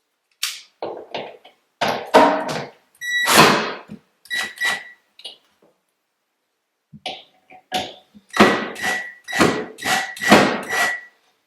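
Cordless drill/driver running in short trigger bursts, each with a steady high motor whine, backing out the screws that hold an over-the-range microwave to the wall cabinet above.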